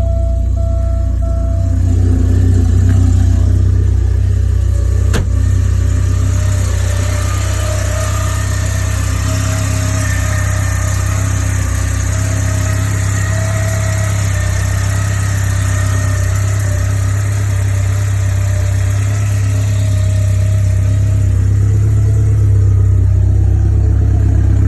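Porsche 944 Turbo's turbocharged four-cylinder engine idling steadily just after a cold start. A repeating electronic beep sounds during the first couple of seconds, and there is one sharp click about five seconds in.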